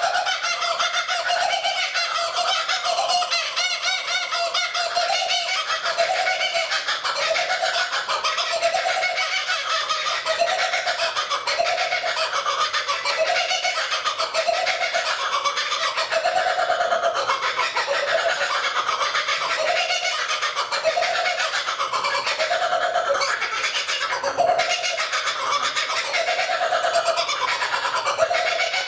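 Laughing kookaburras calling in a sustained chorus: lower hoots repeat about once a second under dense, rapid chattering.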